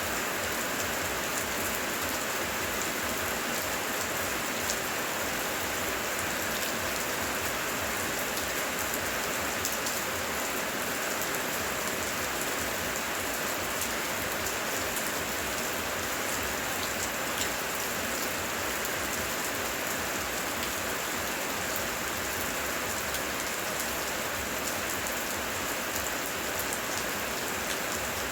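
Steady heavy rain falling, with many individual drops hitting close by as small sharp taps throughout.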